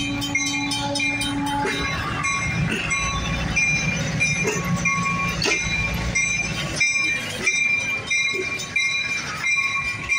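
Grade-crossing bells ringing steadily while a diesel switcher locomotive and its excursion cars roll past. The locomotive's horn ends about two seconds in, and the engine's low rumble drops away around seven seconds in, leaving the knocking and clatter of the car wheels over the crossing.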